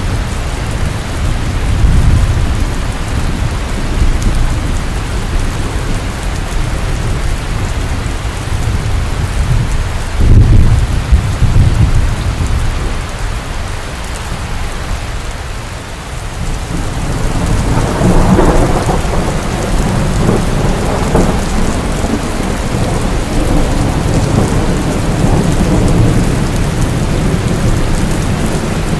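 Steady heavy rain falling, with thunder rumbling underneath. A loud rumble comes about ten seconds in, and another long roll builds from about seventeen seconds on.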